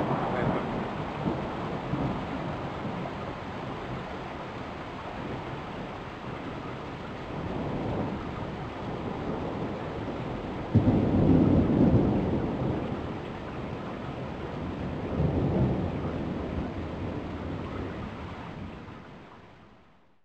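Thunderstorm: steady rain with rolling thunder. A sudden thunderclap about eleven seconds in rumbles on for a few seconds, a second rumble swells a few seconds later, and the sound fades out at the end.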